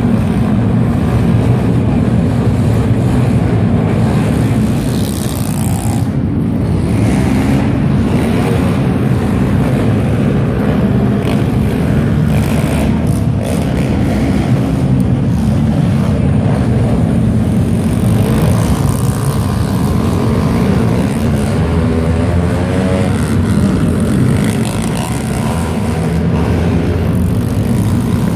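Pit bike engines running and revving as the bikes race, a continuous loud motor din with rising and falling pitch.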